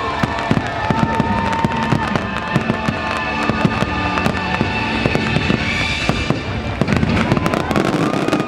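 Fireworks finale barrage: a dense, rapid run of bursts and bangs over the show's music, stopping abruptly at the very end.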